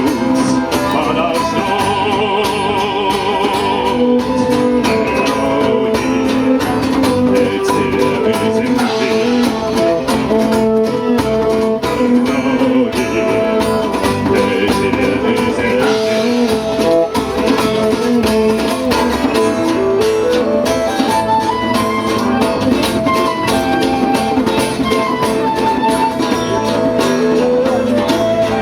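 A band playing a song, with guitar prominent.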